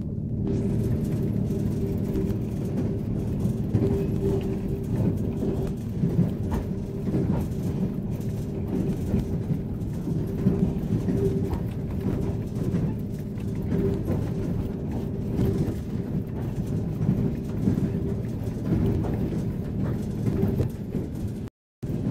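Train in motion: a steady low rumble with a constant hum, and scattered clicks and knocks from the running gear.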